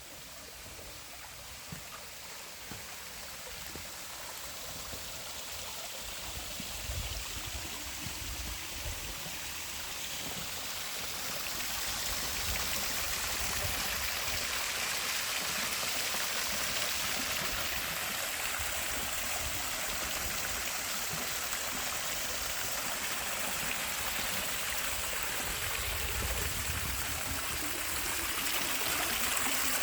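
Creek water running and splashing over small waterfalls and cascades, growing steadily louder.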